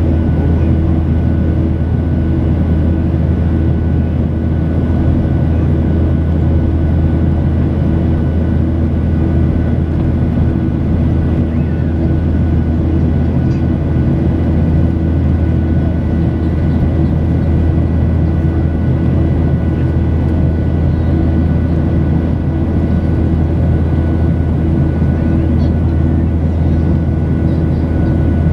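Steady cabin noise of a Boeing 737-800 airliner under way: its CFM56 jet engines give a loud, even deep rumble with a few steady whining tones over it, unchanging throughout.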